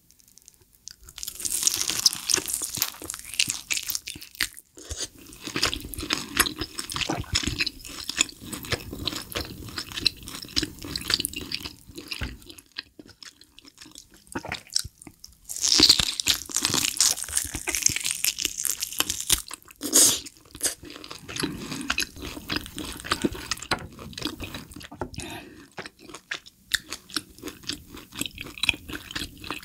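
Close-miked eating of a grilled Hanwoo tomahawk steak: bites into the seared crust, then juicy chewing. The loudest bites come about a second and a half in and again about fifteen seconds in.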